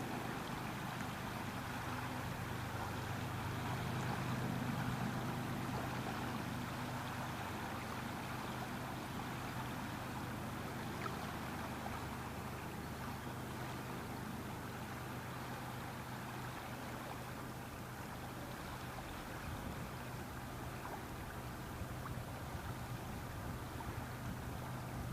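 Steady rushing wind, with a low, even hum underneath.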